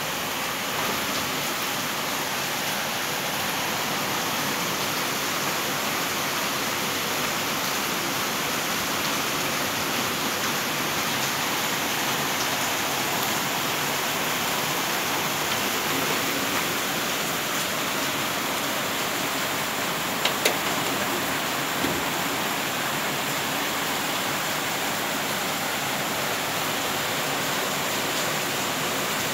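Heavy rain pouring down steadily, an even hiss of a downpour, with a couple of short sharp ticks about two-thirds of the way through.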